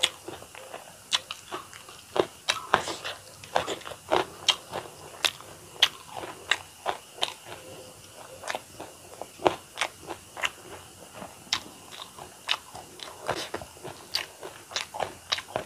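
Close-miked chewing of a mouthful of rice and curry, with sharp wet mouth clicks and crunches at an irregular pace of about two a second.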